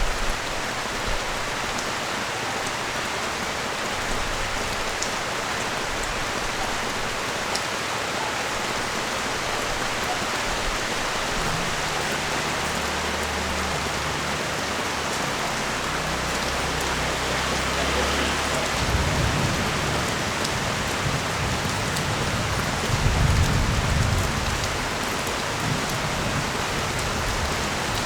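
Steady rain falling on the street and nearby surfaces, an even hiss throughout. In the second half a low rumble rises under it twice, loudest about 23 seconds in.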